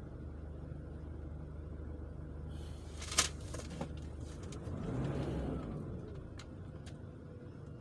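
Car engine running with a steady low hum that stops about four and a half seconds in. A sharp click comes about three seconds in, and a brief swell of noise follows the stop.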